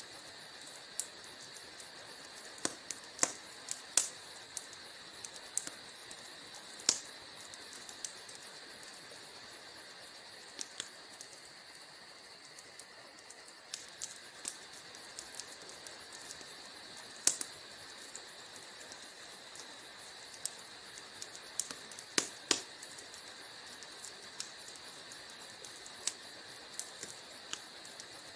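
Wood fire crackling in a fireplace: a steady hiss with a constant fine ticking and irregular sharp pops and snaps, a few much louder than the rest.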